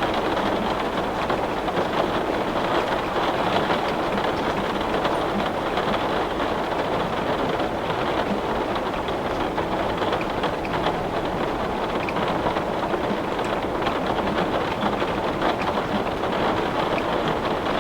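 Steady hiss of heavy rain falling on window glass, with faint scattered ticks of drops.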